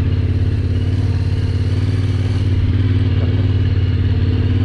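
Yamaha Ténéré 700's 689 cc parallel-twin engine running at a steady pace while under way, holding an even pitch.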